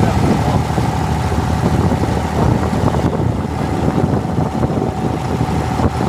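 Boat engine running steadily, heard from aboard: a constant low rumble with a faint steady whine above it.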